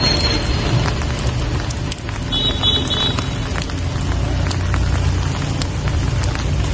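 Steady rain falling, with many scattered drop ticks over a constant low rumble. A short, high repeated chirp is heard about two and a half seconds in.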